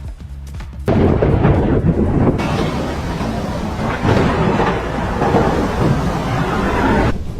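Thunder from a nearby lightning strike: a sudden loud crack about a second in, then several seconds of rumbling thunder with rain, cut off abruptly near the end. Background music plays before the strike and again at the very end.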